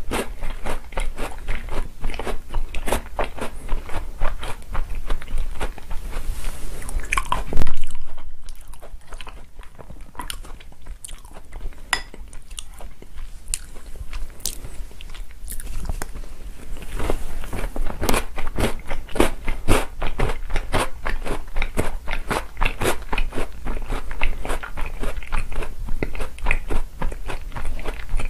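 Close-miked chewing and crunching of chocolate cookies soaked in chocolate milk, a steady run of crisp bites and chews. A single loud clack about seven seconds in is followed by a quieter few seconds before the crunching picks up again.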